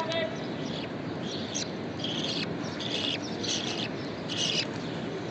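Budgerigars chirping: short, high calls repeating every half second or so over a steady background hiss.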